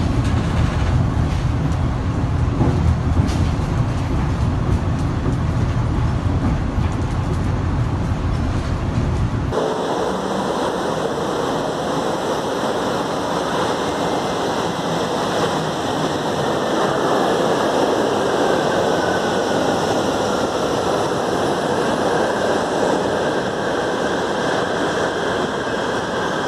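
Metro train sounds: a train running with a heavy low rumble, then, after an abrupt change about nine seconds in, a steady rushing hiss with several high steady whines and a faint whine falling in pitch.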